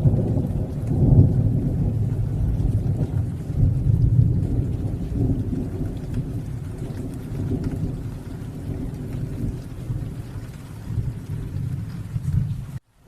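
Thunderstorm: long rolls of low thunder rumbling over steady rain, swelling twice early and slowly easing off. The sound cuts out abruptly for a moment near the end.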